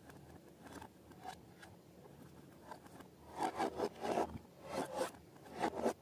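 Hands working balloons and slime, making rubbing and scraping sounds: a few faint strokes, then a quick run of louder strokes in the second half.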